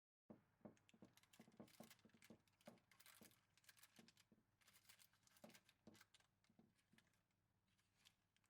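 Faint, irregular small clicks and rustles, like things being handled close by, starting abruptly just after the start.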